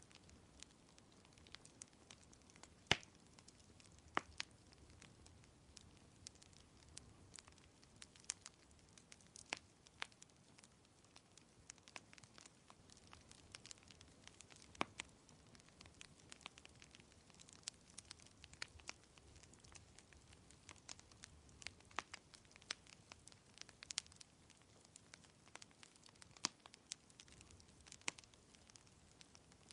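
Wood fire crackling: irregular sharp pops and snaps of burning logs, the loudest about three seconds in, over a faint steady hiss.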